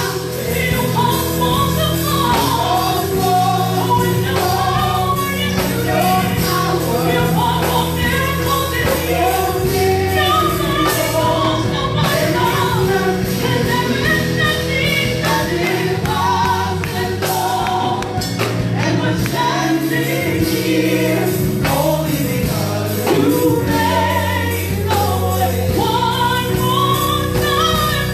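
Gospel worship music: a choir singing over a steady band with sustained bass notes.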